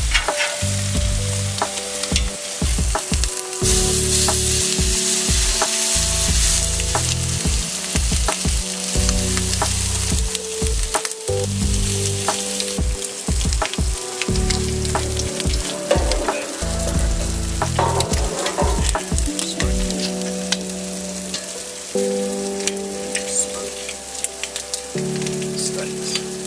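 Food sizzling on a grill over a wood fire, a steady hiss with many sharp crackles and pops. Background music with bass notes plays underneath.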